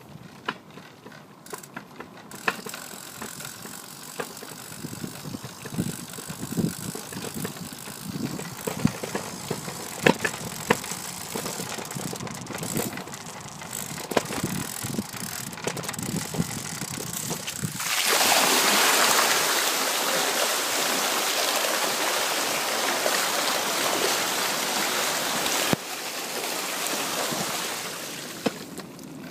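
Rushing floodwater in a swollen river. For the first part it is an uneven rumble with scattered knocks. About eighteen seconds in, a much louder, steady rushing sound takes over.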